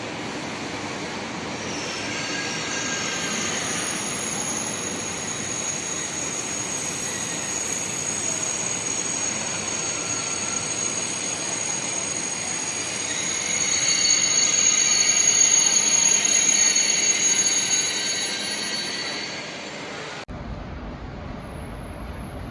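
High-speed train moving through the station, a steady rumble with a sustained high-pitched squeal or whine over it that grows loudest about two thirds of the way in, then a sudden cut to a quieter background.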